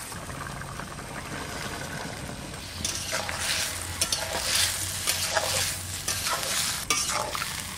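Cut snake gourd frying in a wok, sizzling as a metal spatula stirs and scrapes through it. A steady hiss at first, then repeated scraping, stirring strokes from about three seconds in.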